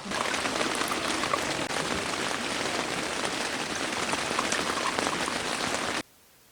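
Heavy rain falling, a dense steady patter of many drops, which cuts off suddenly about six seconds in.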